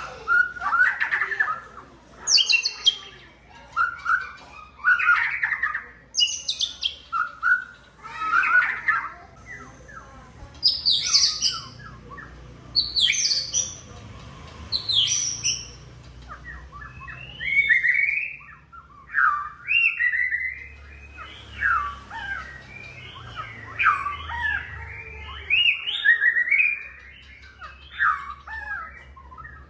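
White-rumped shama singing: a string of short, loud whistled phrases, one every second or two, many sweeping up or down in pitch. A faint low hum lies underneath.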